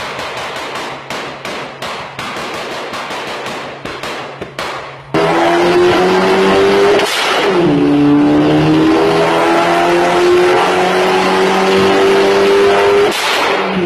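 Car engine: first a run of sharp pops over a steady low engine drone, then the engine under hard acceleration, its pitch climbing, dropping once at a gear change about seven seconds in, and climbing again.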